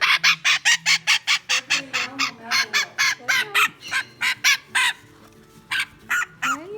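Young African grey parrot giving rapid, harsh, repeated squawks at about four or five a second, breaking off briefly about five seconds in and then starting again: protest calls while it is being pushed into a travel carrier.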